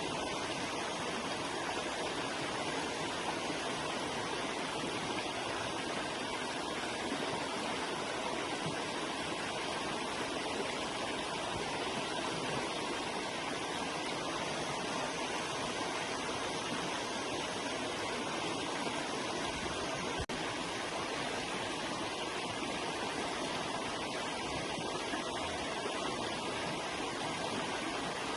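River flowing, a steady, even rush of running water with a momentary dropout about twenty seconds in.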